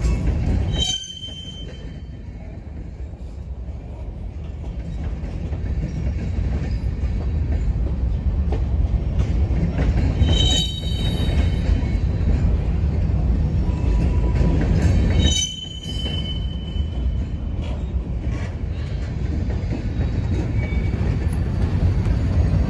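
Freight train of covered hopper cars rolling past, a steady low rumble of wheels on rail, with three brief high-pitched wheel squeals.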